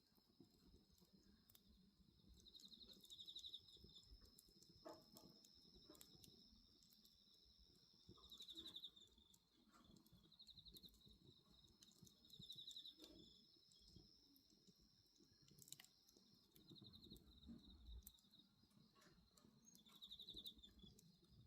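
Faint night insects: a steady high trill with short pulsed chirps every two to four seconds, over scattered soft crackles and pops of a burning wood fire.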